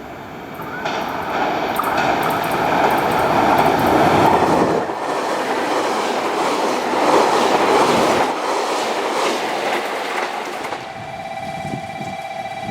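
Electric train running through the station, wheels clattering over rail joints, its loud rumble swelling twice. Near the end it fades and a steady high tone takes over.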